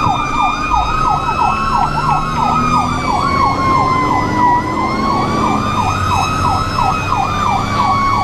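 Fire apparatus sirens running: a rapid yelp, about four to five sweeps a second, overlapping a slower wail that rises and falls, over the low rumble of a truck engine.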